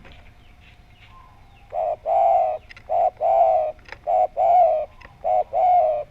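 Spotted dove (tekukur) cooing in a full, round voice: about four phrases in quick succession, each a short coo followed by a longer rolling coo, starting about a second and a half in.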